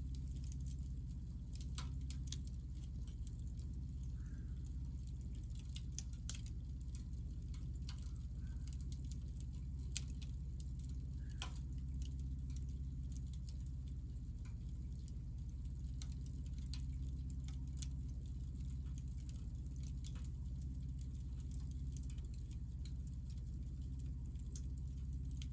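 Burning hinoki (Japanese cypress) offcuts crackling, with irregular sharp pops and snaps over a steady low rumble.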